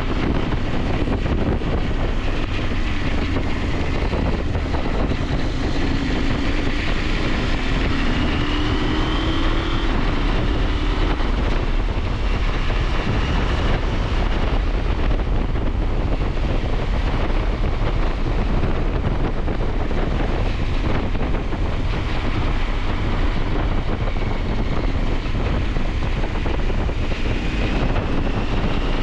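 KTM 890 Adventure's parallel-twin engine under way, its pitch rising several times as it pulls through the gears in the first ten seconds and again near the end, with wind rushing over the microphone.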